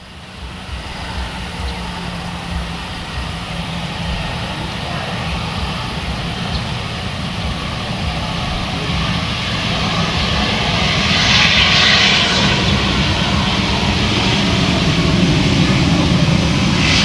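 Jet airliner engines running, the noise growing steadily louder as the aircraft draws near, with a brighter hiss swelling up about two-thirds of the way in and again at the end.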